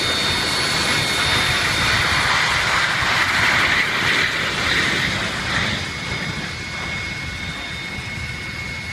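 Boeing 737 jet engines running: a steady high whine over a rushing roar that swells in the middle and eases off after about six seconds.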